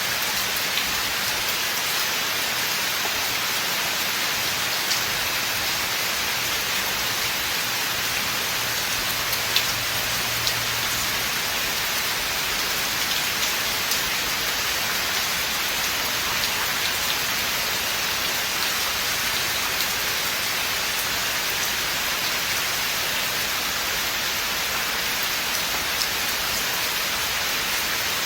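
Steady rain falling on a forest, an even hiss with scattered individual drops ticking on leaves and surfaces.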